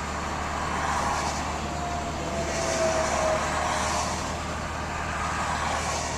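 Truck engine and road noise heard inside the cab while driving, a steady low hum, with a faint whine sliding slowly down in pitch midway through.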